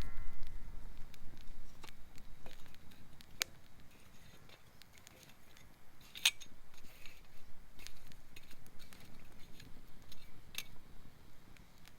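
Campfire of gathered forest wood crackling, with a few sharp pops spread out over several seconds. A low rumble at the start fades away over the first few seconds.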